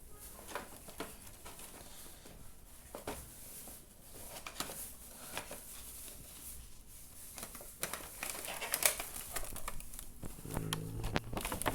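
Cardboard box and packaging being opened by hand: scattered rustles, scrapes and small clicks, busier in the last few seconds.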